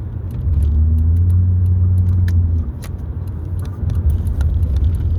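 Low motor-vehicle rumble that swells louder for about two seconds starting half a second in, then settles back, with a few faint clicks over it.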